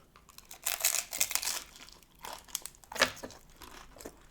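Crisp hard taco shell crackling and crinkling as the loaded taco is picked up and handled, with one sharp crack about three seconds in.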